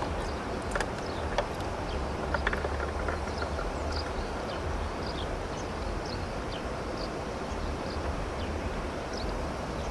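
Steady outdoor ambience: a constant hiss with a fluttering low rumble, like wind on the microphone, and a few light clicks in the first few seconds.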